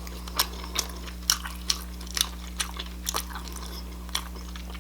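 Close-miked chewing: a string of short, sharp, wet mouth clicks and crunches, about two a second, over a faint steady hum.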